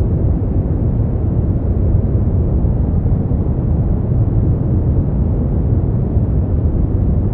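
Steady brown noise: a deep, even rumbling hiss with most of its energy in the low end, fading out toward the treble, unchanging throughout.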